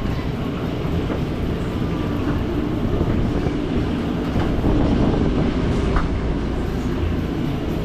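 Steady low mechanical rumble from a food truck's running machinery, with a brief clink about six seconds in.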